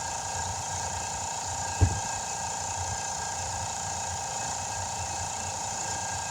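Steady mechanical hum made of several constant tones over a low rumble, with one dull low thump a little under two seconds in.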